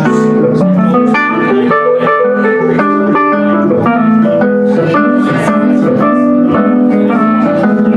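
Band playing music led by guitar, loud and steady, with notes picked and changing throughout and no singing.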